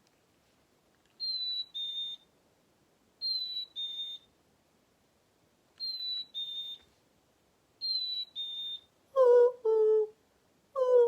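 Recorded chickadee song played back: four repeats of a clear two-note whistle, a slightly falling higher note followed by a level lower one, the "fee-bee" song of the black-capped chickadee. About nine seconds in, a woman's voice copies the same two notes twice, much louder and lower in pitch.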